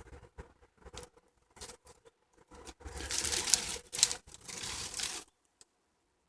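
Footsteps on a woodland path: scattered small crackles at first, then a louder stretch of crunching and rustling that stops abruptly about five seconds in.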